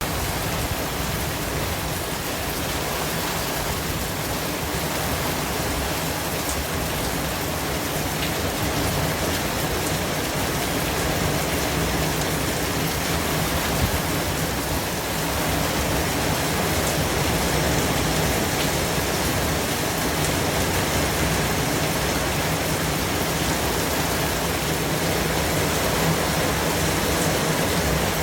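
Steady white noise: an even, unbroken hiss that spreads across all pitches and holds the same level throughout.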